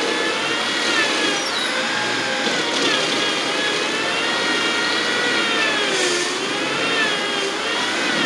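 A working landscaping machine's engine running steadily, its pitch drifting slowly up and down.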